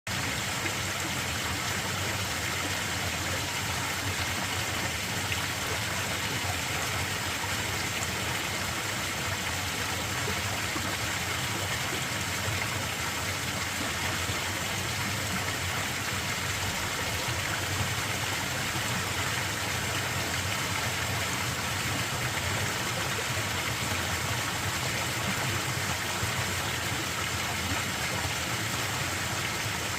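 Mountain valley stream running, a steady rush of water that stays even throughout.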